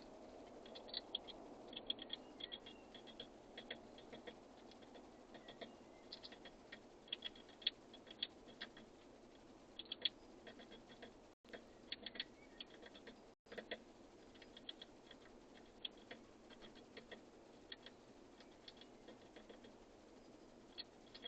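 Birds pecking and scratching at seed on a feeder: faint, irregular light ticks and taps, often several in quick succession, over a low steady outdoor hiss.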